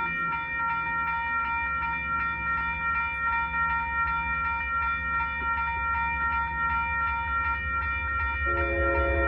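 Railroad crossing bell ringing steadily at about three strikes a second over the deep rumble of an approaching diesel freight locomotive. Near the end, the locomotive's multi-note air horn starts sounding.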